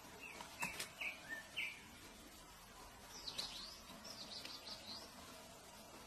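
Short bird chirps at a thrush nest with nestlings. A few brief notes and two sharp clicks come in the first two seconds, then a quicker cluster of higher chirps follows about three to five seconds in.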